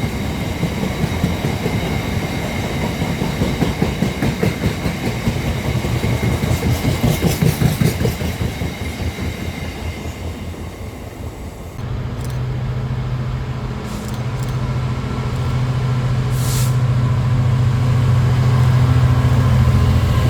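A train running past, its wheels clattering rhythmically over the rails, dying away by about ten seconds in. About twelve seconds in, a steady low engine hum starts from a train and gets louder toward the end, with a brief hiss partway through.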